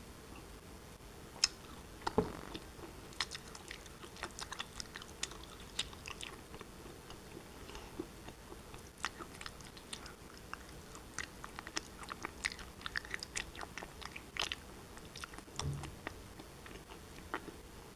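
Black shale pieces being bitten and chewed close to the microphone: irregular sharp crunches and cracks, with a louder bite about two seconds in.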